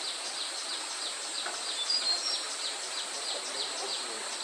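Insects: a steady high-pitched drone with a short falling chirp repeating about three times a second. A few brief bird whistles come about two seconds in.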